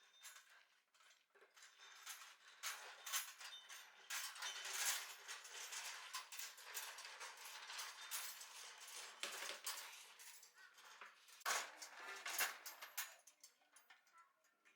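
Dense clinking and rattling of small hard objects, typical of metal tools or parts being handled and sorted, with a couple of sharper knocks about two thirds of the way through; it dies away near the end.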